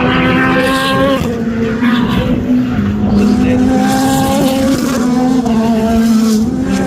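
Race car engines running at speed, loud and continuous, with several engine notes overlapping. The pitch steps down a couple of times as cars shift or pass.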